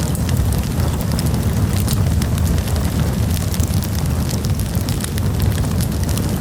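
Wood campfire crackling, with many quick, irregular sharp pops and snaps over a steady low rumble of the burning fire.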